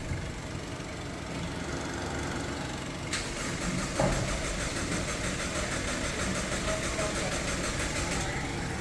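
A Toyota Land Cruiser Prado's 2.7-litre engine being turned over by the starter for a long time, a steady repeating mechanical churn, with a short click about three seconds in. The long cranking comes from the fuel pump, fuel lines and injectors having been emptied during the work, so fuel is slow to arrive.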